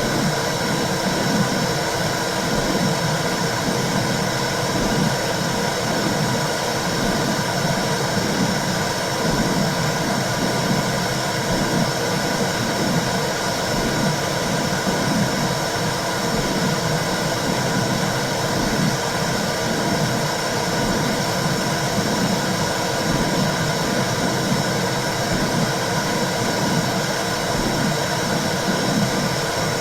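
Womb sound: a steady low whooshing noise with a soft pulsing underneath, the mother's blood flow and heartbeat as heard inside the uterus, used to calm a baby.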